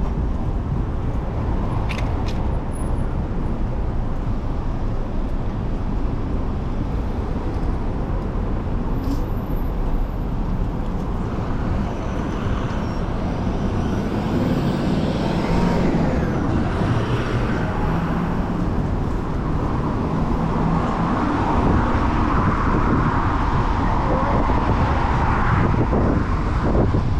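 Street traffic heard from a moving bicycle: a steady rumble of wind on the microphone with motor vehicles passing, louder from about halfway and loudest near the end.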